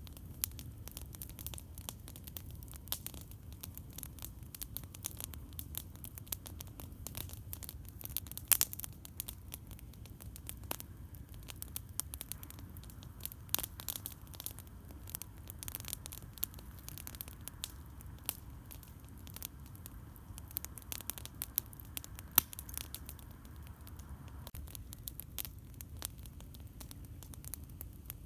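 Wood campfire crackling: irregular sharp pops and snaps, the loudest about eight and a half and twenty-two seconds in, over a steady low rumble.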